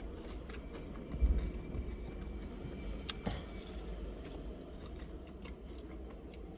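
Close-up chewing of crunchy fried snacks, with many small crackling crunches and a single loud thump about a second in.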